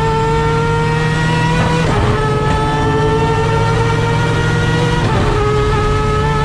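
Mazda RX-7's 20B-PP three-rotor peripheral-port rotary engine pulling hard, heard from inside the car. Its pitch climbs steadily, drops sharply at an upshift about two seconds in and again about five seconds in, then climbs again.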